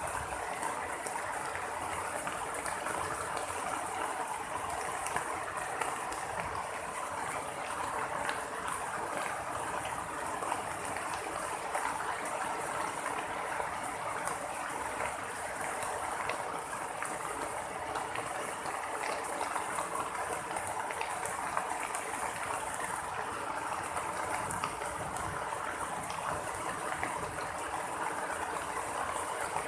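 Steady heavy rain, an even hiss with many small drop ticks throughout. There is no thunder.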